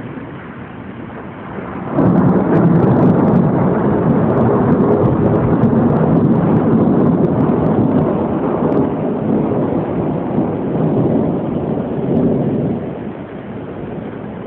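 Thunder: a sudden loud crack about two seconds in, then rolling rumble for about ten seconds before it dies away.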